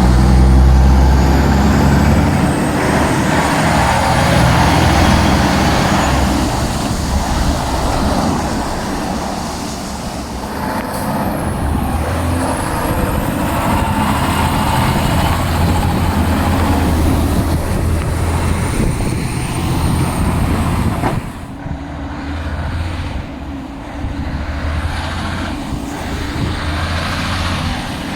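Heavy diesel trucks running, with a steady low engine drone and faint high whines that rise and fall. The sound drops off somewhat about three quarters of the way through.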